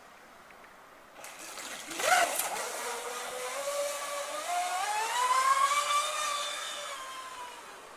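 Radio-controlled catamaran boat's motor whining as it runs up to speed, its pitch rising through the middle and then falling and fading towards the end, with a brief loud rush of noise about two seconds in.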